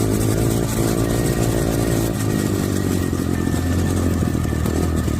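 Dirt bike engine running under throttle, its pitch fairly steady for about two seconds and then rougher.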